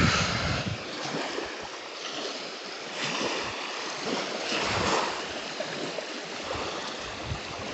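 Small waves washing onto a beach, a steady hiss that swells twice, about three and five seconds in. A breathy "whew" at the start.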